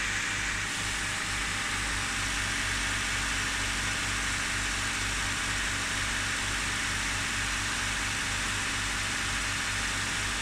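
Honda D15Z6 1.5-litre four-cylinder engine idling cold, with an even, rhythmic low pulsing. This is the cold-start knock, which the owner says all but disappears after about 30 seconds of running.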